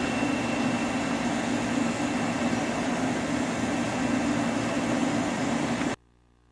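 Steady mechanical running noise with a low hum, cut off abruptly about six seconds in.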